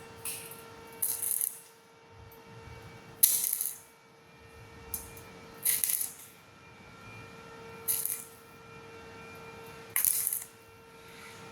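Stick-welding arc on thin galvanized steel tube, struck in short crackling bursts of about half a second, roughly every two seconds, with the arc broken between them to keep from burning through the thin metal. A faint steady hum runs underneath.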